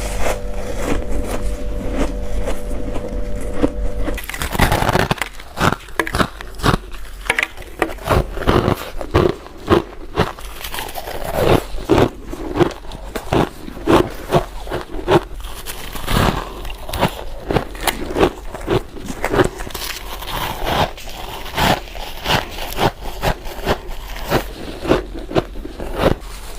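Close-miked bites and chewing of crunchy freezer frost: many sharp, irregular crunches. During the first four seconds a steady hum runs under the sound, then stops.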